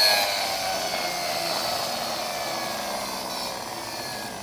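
Toy car's motor and gears whirring as they spin down, the pitch slowly falling and the sound fading.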